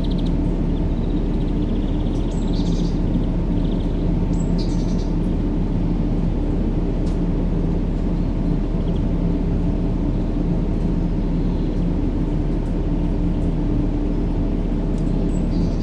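Steady, even low rumbling noise used as white noise for baby sleep, with a faint hum in it. A few faint high chirps come through it, about two and a half seconds in, again about two seconds later, and near the end.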